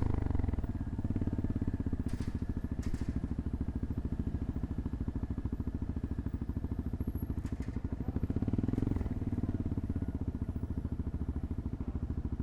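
CFMoto Papio XO-1's single-cylinder four-stroke engine idling with an even, rapid putter, revving up briefly about eight and a half seconds in. A few faint clicks over it.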